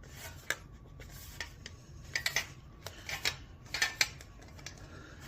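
Sheet metal being bent over by hand, giving a series of irregular light metallic clinks and ticks as the flanges are pressed to a 90-degree bend.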